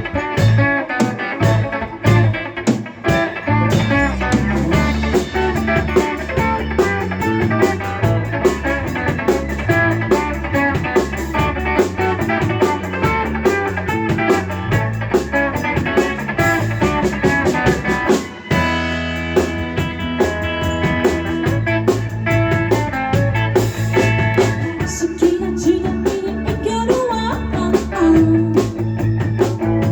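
A live rock band playing a song on electric guitar and drum kit, with a short break about eighteen seconds in before the band comes back in.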